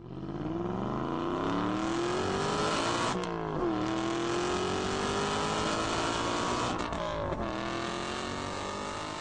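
Car engine accelerating hard through the gears: the engine note climbs steadily, drops at a gear change about three seconds in, climbs again, and drops at a second change near seven seconds.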